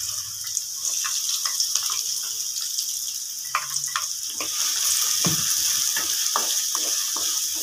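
Sliced okra sizzling in hot coconut oil in an aluminium kadai, a steady hiss. From about halfway a wooden spatula stirs it, scraping and knocking against the pan a few times a second.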